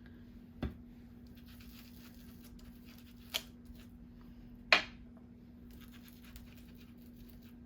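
Paper and a plastic stencil being handled on a craft desk: three brief taps and scrapes, the sharpest about five seconds in, over a steady low hum.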